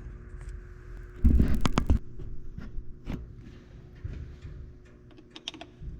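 A loud clunk and rattle about a second in, then scattered light knocks and clicks, like handling of metal parts or tools.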